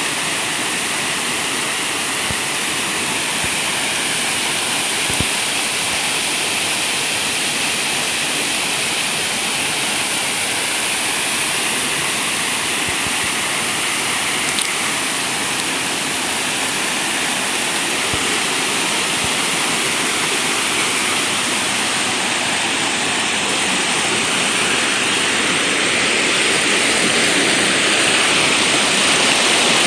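Steady rush of running water, growing a little louder near the end.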